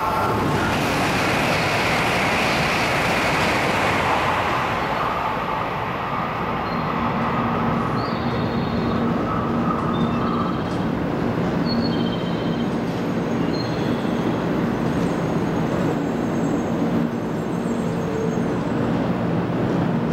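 500 Series Shinkansen train running slowly through the station, a steady rumble of running noise with a steady whine that stops about halfway through. A few short high squeaks come in the middle.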